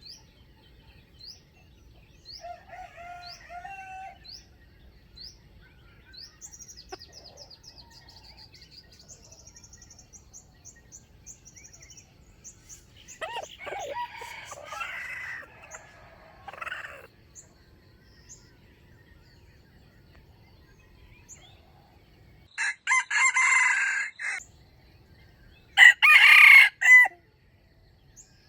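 Red junglefowl (wild chicken) rooster crowing: a fainter crow about halfway through, then two loud crows near the end, the last the loudest. A small bird chirps in a quick, even series through the first half.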